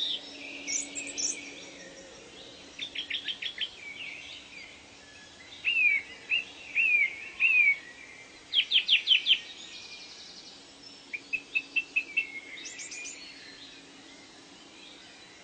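Several wild birds calling over a steady background hiss. There are bursts of quick repeated chirps, a run of four slurred whistles about six seconds in, and a fast series of loud notes around nine seconds in.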